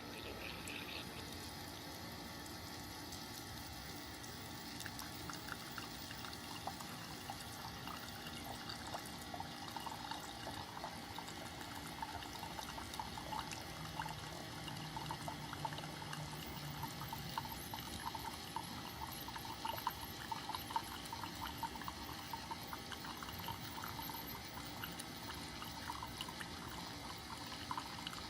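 Keurig K-Mini single-serve coffee maker heating its water before brewing: a faint watery hiss with small crackling ticks that grow more frequent, and a low hum for a few seconds about halfway through.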